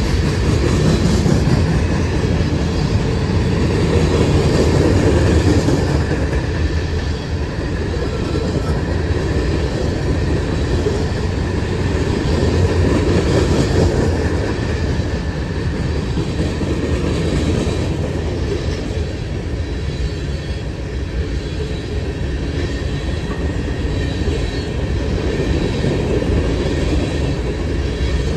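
Freight cars of a CSX local train rolling past at speed: a steady, loud rumble of steel wheels on rail that swells a little twice.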